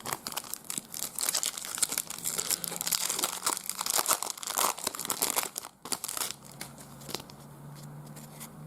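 Plastic-foil trading card pack wrapper crinkling and tearing as the pack is opened, a dense crackle that dies down about six seconds in.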